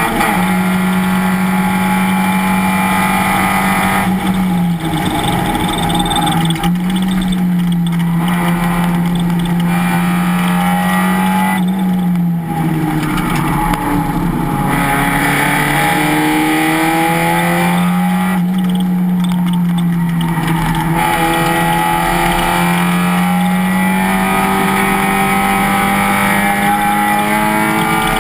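Race car engine running hard at high revs. Its pitch stays mostly level, dips three times and climbs back each time.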